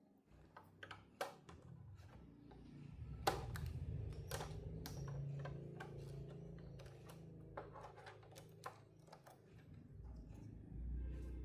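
Scattered light clicks and taps of hard objects being handled, with a few sharper knocks, the loudest about three seconds in, over a low steady hum.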